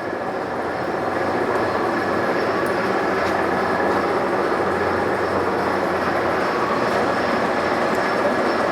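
Large Mazak engine lathe running, a steady mechanical rumble with a faint steady tone through it, building up over about the first second and then holding.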